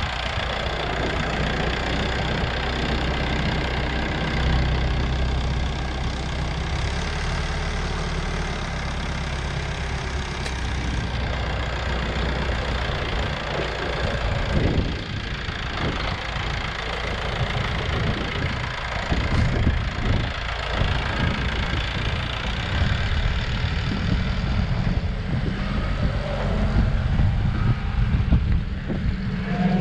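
Tractor engine running, a steady low drone that turns rougher and more uneven about halfway through.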